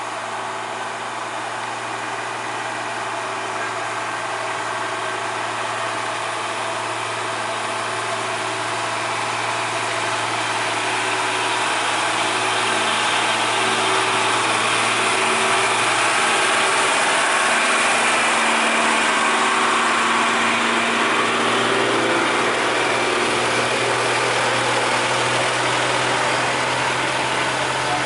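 Truck engine running steadily, slowly growing louder over the first half.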